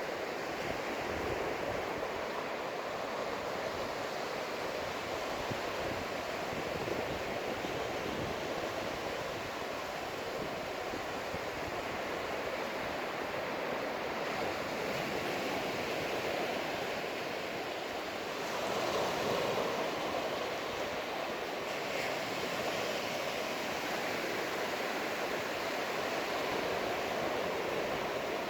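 Ocean surf washing steadily onto a sandy beach, swelling a little about two-thirds of the way through.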